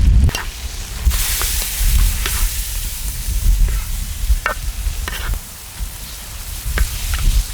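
Food sizzling and frying on a cast-iron cauldron-lid griddle (sot-ttukkeong) while a utensil stirs it, with scattered short scrapes and clicks. The sizzle grows louder about a second in, over a low rumble.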